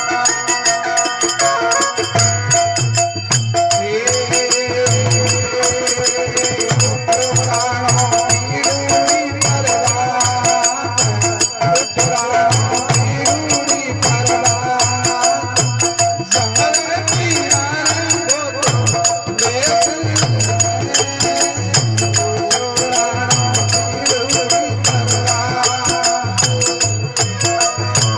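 Instrumental interlude of a Rajasthani folk bhajan. A held melody and drone sound over a fast rattling jingle percussion and a regular low drum beat.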